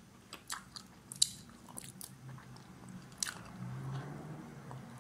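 Close-miked eating sounds from lamb knuckle curry eaten by hand: chewing and biting, with scattered sharp wet mouth clicks and smacks.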